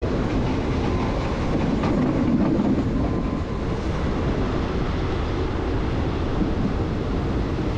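Passenger train running along the track, heard from on board: a steady rumble of the carriage's wheels on the rails, with a faint knock about two seconds in.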